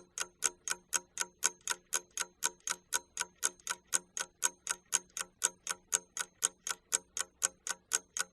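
Clock ticking steadily, about four ticks a second: a timer sound counting down the time given to do a task.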